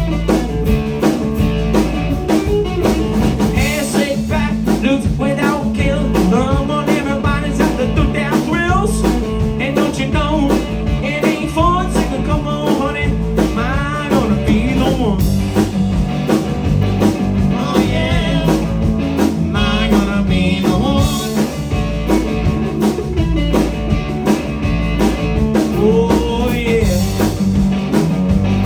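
Live blues and rock & roll band playing, led by electric guitar over a steady drum beat, with bending lead lines.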